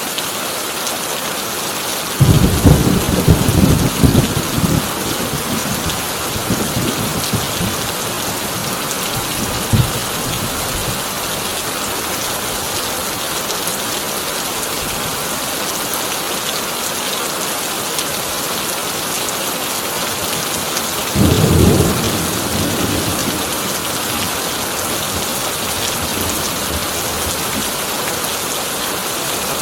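Heavy rain drumming steadily on a corrugated tin roof, with two claps of thunder: a long crashing one about two seconds in that rumbles on for a few seconds, and a shorter one about 21 seconds in.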